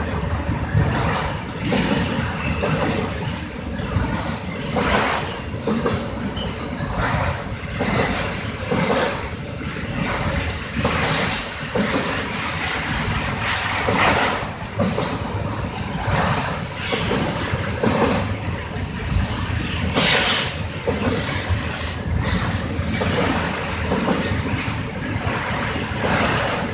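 Freight train of autorack cars rolling slowly past at close range: a steady rumble of wheels on rail, with wheel clacks over the rail joints coming every second or two.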